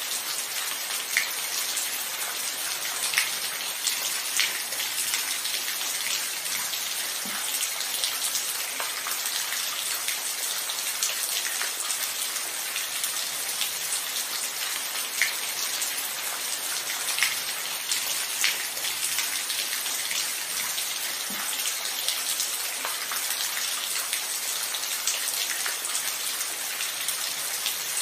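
Steady rain falling: an even hiss of many drops, with a louder individual drop ticking close by every few seconds.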